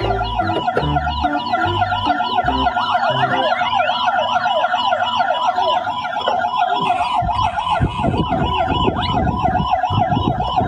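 Emergency-vehicle siren in a fast yelp, its pitch rising and falling about four times a second. Low, thumping tones sound beneath it for the first couple of seconds.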